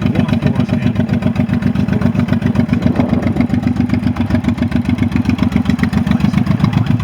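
Honda VTX 1800 V-twin motorcycle engine running steadily at idle, an even pulsing beat with no revving.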